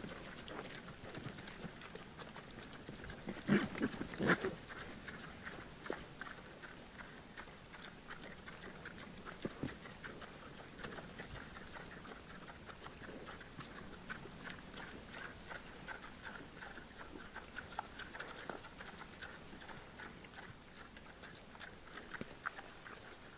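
Wild boar grunting twice, about three and a half to four and a half seconds in, followed by faint scattered sounds.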